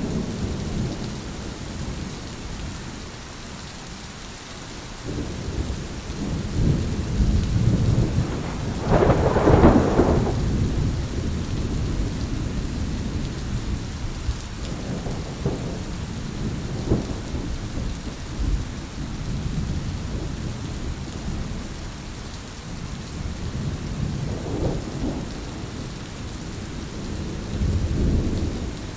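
Thunderstorm: steady rain with repeated rolls of thunder, the loudest about a third of the way in, and further low rumbles later on.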